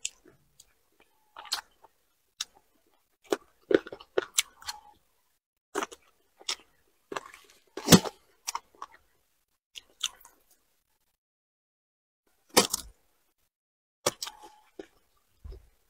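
A person chewing a mouthful of fried fish close to a clip-on microphone: irregular sharp mouth clicks and smacks, the loudest about halfway through.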